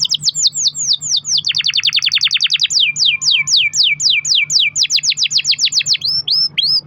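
Domestic canary singing a long rolling song: rapid trills of repeated down-sweeping notes that switch speed and pitch every second or so, ending in a few slower, drawn-out notes just before it cuts off.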